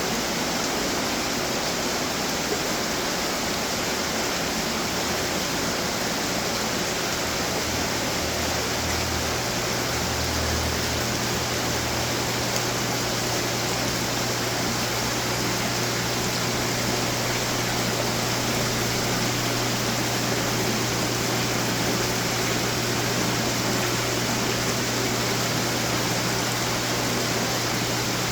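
Running water splashing and trickling steadily from many display fountains, with a low steady hum underneath.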